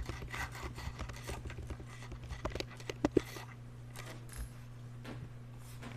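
Scattered light clicks and taps of a computer keyboard and mouse, over a steady low hum.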